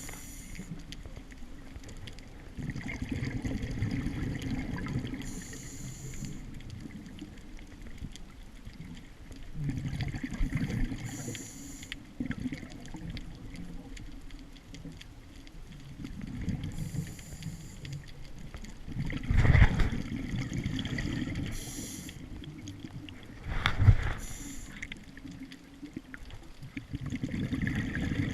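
Scuba diver breathing through a regulator underwater: a short hiss on each inhalation, about every five to six seconds, and a bubbling rumble as each exhalation vents. Two sharp knocks in the second half are the loudest sounds.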